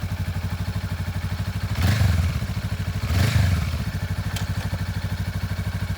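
Honda Rebel 500's parallel-twin engine idling with an even pulse, blipped twice briefly, about two seconds in and again about a second later.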